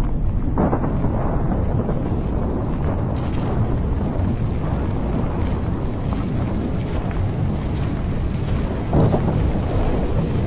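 Continuous low rumble of a building collapsing in a controlled demolition, with heavier booms about half a second in and about nine seconds in.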